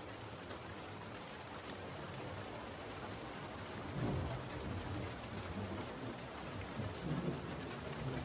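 Steady rain, with low thunder rumbling in about halfway through and again near the end.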